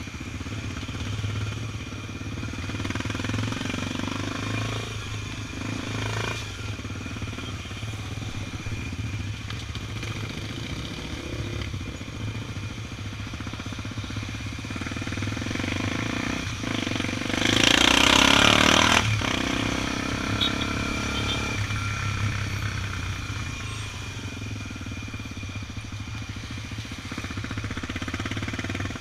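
Honda XR 250 Tornado's single-cylinder four-stroke engine running steadily while riding in traffic. A loud rush of noise lasting about a second and a half comes a little past the middle.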